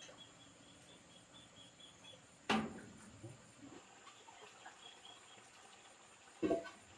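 Two sharp knocks about four seconds apart, over faint outdoor background with a short run of high insect-like chirps near the start.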